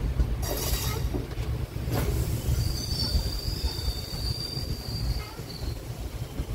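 Passenger train running along the track with a heavy low rumble and a couple of sharp clanks early on. About two and a half seconds in, a high steady wheel squeal sets in and lasts about three seconds.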